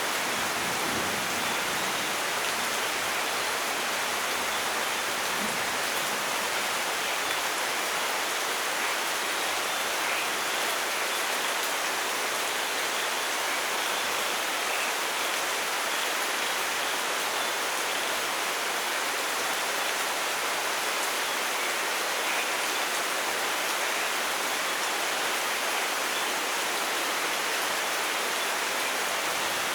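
Steady heavy rain falling, an even hiss with scattered drop patter and no thunder.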